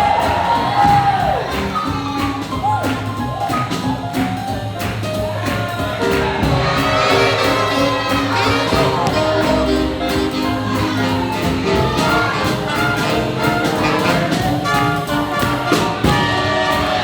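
Live swing-jazz big band playing an up-tempo number, with trumpets and brass over a steady rhythm section beat. The horns slide down in pitch in several places.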